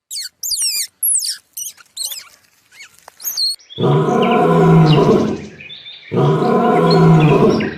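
A few quick high whistled chirps like bird calls, then a big cat roaring twice, each roar about a second and a half to two seconds long and loud, with a deep rumble beneath.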